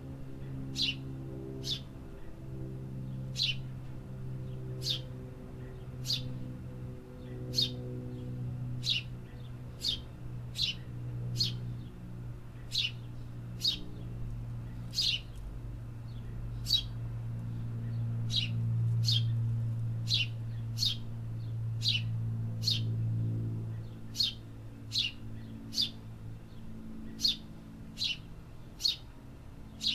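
A small bird chirping repeatedly: short, sharp, high chirps about once or twice a second, irregularly spaced, over a low steady hum that swells somewhat in the middle.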